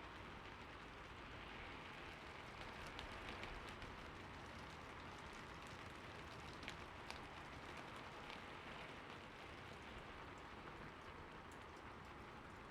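Steady, soft rainfall, with scattered individual drops ticking against a surface.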